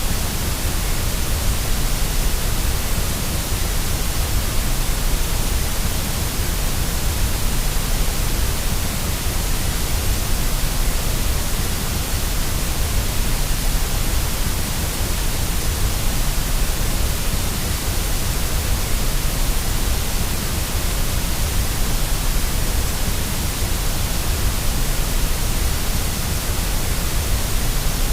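Steady white noise: an even, unbroken hiss spread from a deep rumble up to a bright top end, with no change in level, used as a sleep sound to settle a fussy baby.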